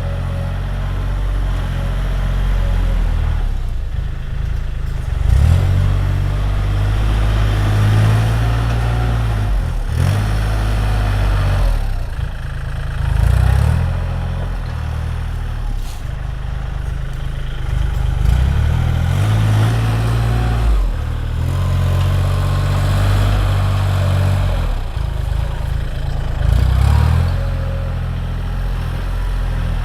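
Tractor engine running and working, its speed rising and falling every few seconds as it takes and sheds load.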